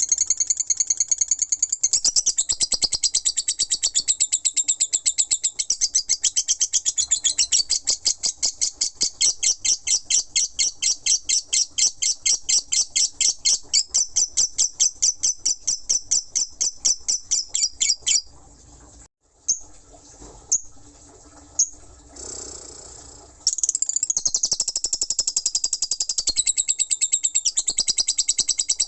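Lovebird singing 'ngekek': a long unbroken run of rapid, evenly repeated high chirps. The run breaks off about two-thirds of the way through for a few seconds, with only a few single short calls, then starts again.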